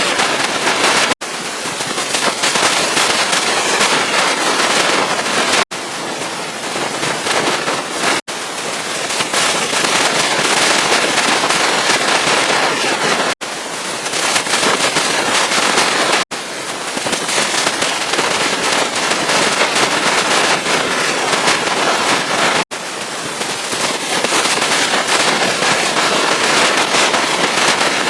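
Pressure-washer water jet spraying hard onto a truck's surfaces: a loud, steady, crackling hiss, broken by a split-second gap six times.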